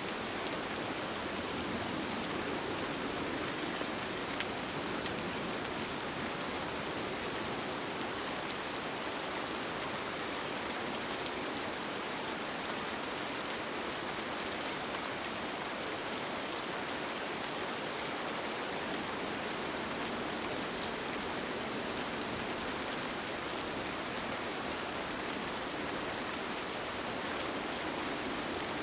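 Steady rain falling and pattering on a surface, with faint scattered drop ticks.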